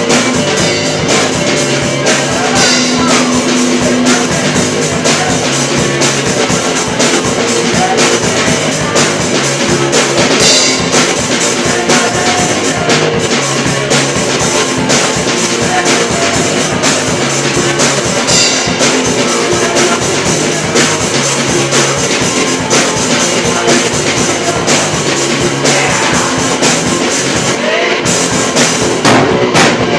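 Rock band rehearsing: a drum kit played with guitar, loud and continuous.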